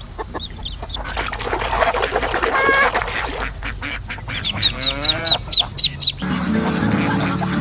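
Recorded waterfowl calls, ducks and geese honking. A harsh call comes first, then a quick run of about eight short, sharp honks, then a lower, drawn-out call near the end.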